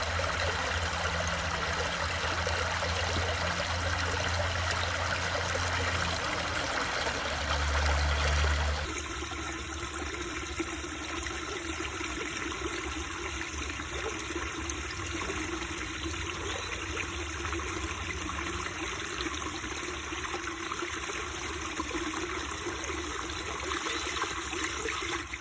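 Running water of a stream flowing steadily. About nine seconds in, the sound cuts to a slightly quieter stretch of flowing water with less low rumble.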